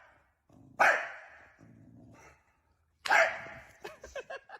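A dog barking twice, two loud single barks about two seconds apart, with a few short, softer sounds after the second.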